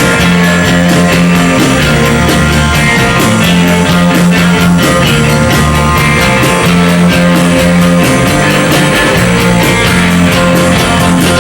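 Live rock band playing loud, with electric guitar, bass and drum kit; the bass moves between held notes every second or so under a steady run of cymbal hits.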